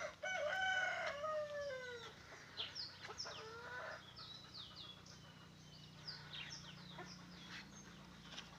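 A rooster crows once, a call of about two seconds that ends in a long falling note. After it come many short, high chirps of small birds, over a faint steady low hum.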